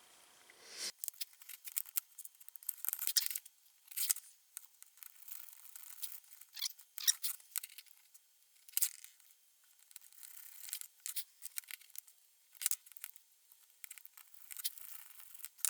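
Irregular light clicks and scrapes of small parts being handled, starting about a second in: new brushes being fitted into the brush holders of a golf cart starter/generator and their wires attached.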